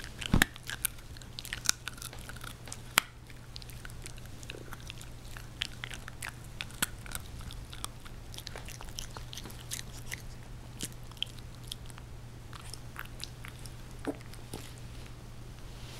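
Shiba Inu puppy chewing: irregular small crunches and clicks, over a steady low hum.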